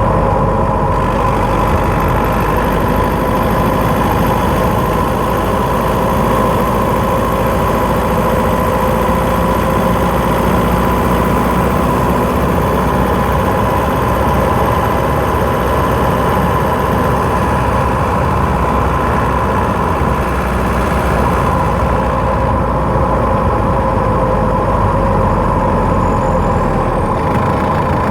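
Skoda Octavia 1.9 TDI PD four-cylinder turbodiesel running as the car drives, heard from under the bonnet in the battery box, with a steady whine over the engine and road noise.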